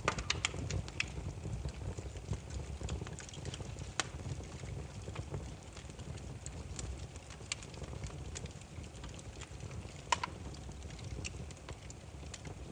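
Burning firewood crackling: a steady low rumble of flame with scattered sharp pops, a quick cluster at the start and a louder pop about ten seconds in.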